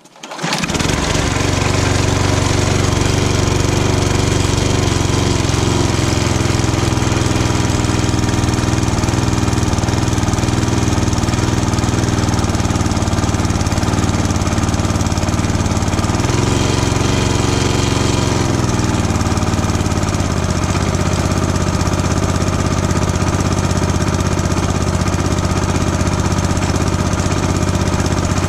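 Old Mountfield rotary lawn mower's petrol engine starting and then running steadily, with a brief pick-up in speed about two-thirds of the way through before settling back. It starts readily but runs with a wobble, probably from the blade.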